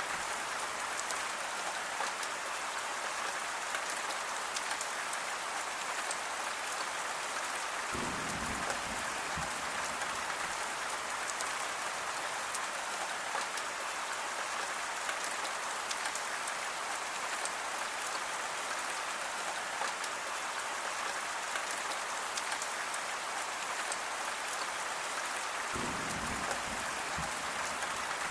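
Steady rain falling, an even hiss with scattered drop ticks. Two brief low bumps, about eight seconds in and again near the end.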